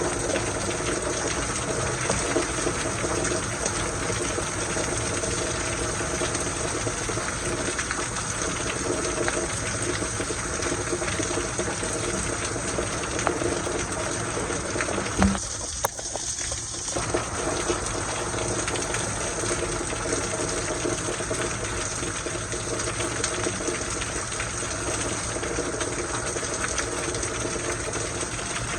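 Steady heavy rain shower, an unbroken rush of falling water, with a single thump about halfway through.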